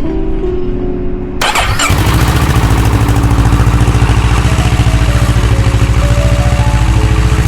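Kawasaki Z650's parallel-twin engine cranked on the electric starter and catching about a second and a half in, then idling steadily with an even, rapid pulse, freshly filled with new oil and coolant. Background music continues faintly underneath.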